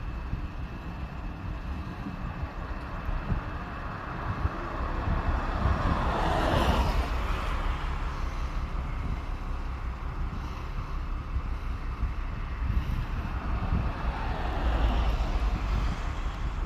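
Low outdoor rumble with wind buffeting the microphone. A vehicle swells up and passes by about six seconds in, and a fainter one passes near the end.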